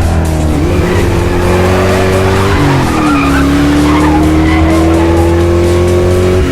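Car engine revving hard under acceleration, its pitch climbing, dropping as it shifts up a gear about two and a half seconds in, then climbing again, with tyre squeal and skidding.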